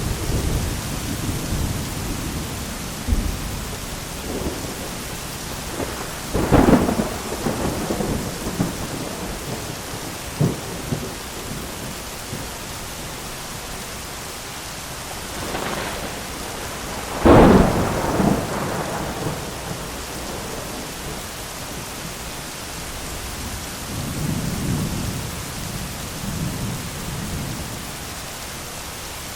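Thunderstorm: steady rain with thunder. Two sharp thunderclaps, about six seconds in and the loudest at about seventeen seconds, each trail off into rumbling, and a softer rumble rolls in near the end.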